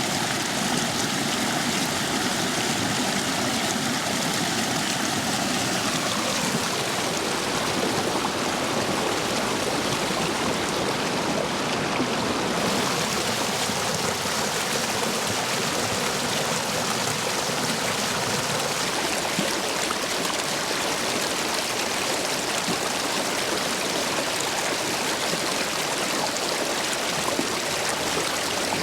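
Stream running full over stepping stones after heavy rain: a steady, dense rush of water. A faint steady hum underneath fades out about six seconds in.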